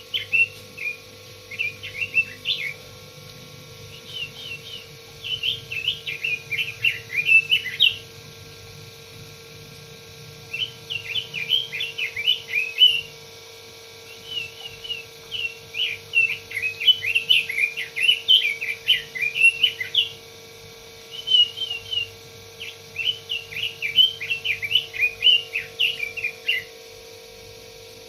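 A Pekin robin (red-billed leiothrix) singing in repeated phrases of quick, rich warbled notes, each phrase lasting a few seconds with short pauses between them. A faint steady hum runs underneath.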